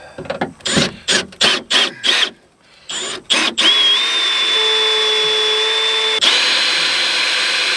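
Power drill drilling out a window-regulator rivet: several short bursts on the trigger, then a steady run from about halfway in, its whine stepping slightly higher near the end.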